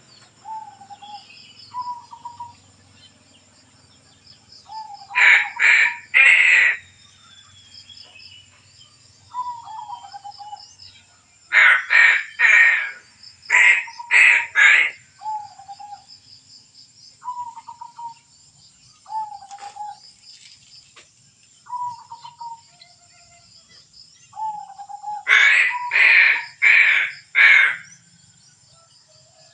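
A crow cawing loudly in bursts of three or four harsh caws, four times, with short falling whistled notes from another bird in between and a steady faint high-pitched hum.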